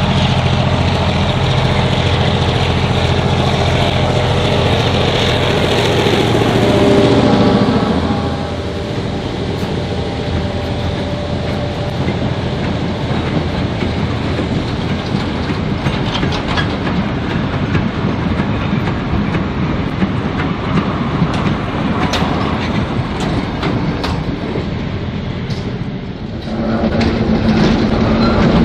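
A diesel locomotive's engine drone builds and then drops away about eight seconds in as the locomotive goes past. Then the train's cars and wagons roll by with a steady rumble and repeated clicks of wheels over the rail joints. A louder engine drone starts again near the end.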